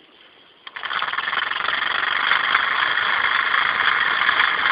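Small live-steam model engine running, a steady, rapid hiss and chuff of steam from its cylinder. It starts about 0.7 s in with a click, after a brief quieter moment.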